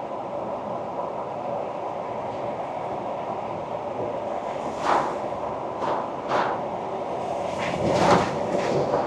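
Ford Ranger Wildtrak driving at a steady pace: steady road and engine noise. From about halfway there is a string of about six short thumps, like the tyres going over bumps or road joints.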